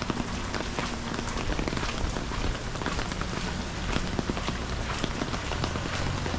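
Steady rain with many sharp raindrop ticks close to the GoPro's microphone, over a low rumble.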